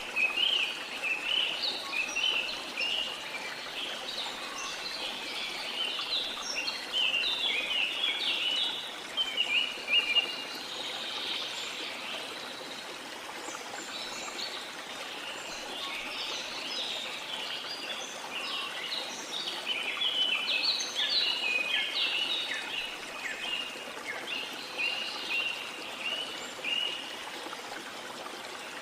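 Rushing water of a waterfall or stream, a steady hiss, with birds singing over it in busy flurries of short, high chirps.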